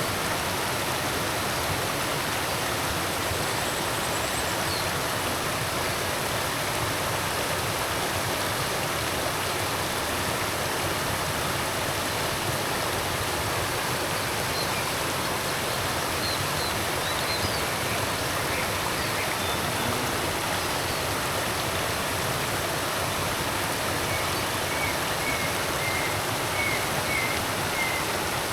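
Forest creek water flowing over rocks in a steady rush, with faint short bird chirps now and then, several of them near the end.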